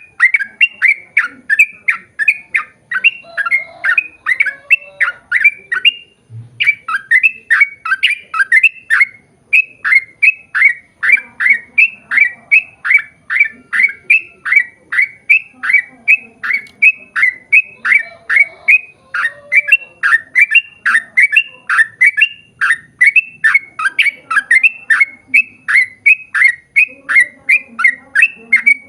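Yellow-vented bulbul (trucukan) calling in a long, unbroken run of short chirping notes, about two a second, with a brief pause about six seconds in.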